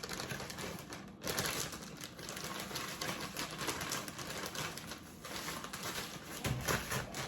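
Dense, irregular soft crackling and rustling as a chicken breast is turned and pressed in a dry seasoning and grated-cheese coating.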